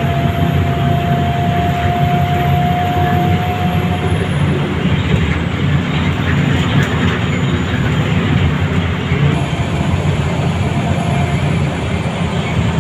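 Scania L94UA bus heard from inside, its diesel engine running steadily under the road and body noise while under way. A thin whine, slowly rising in pitch, fades out about four seconds in.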